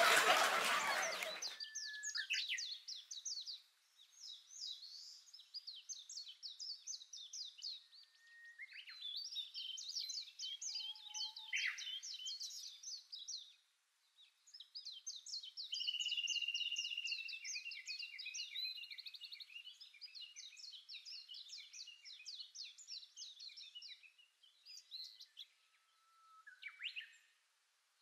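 A songbird singing: phrases of rapid high chirps and trills separated by short pauses, with one longer held note partway through. A louder sound fades out in the first second or so.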